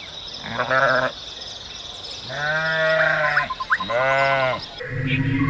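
A farm animal bleating three times: a short bleat, then a long wavering one, then a shorter one.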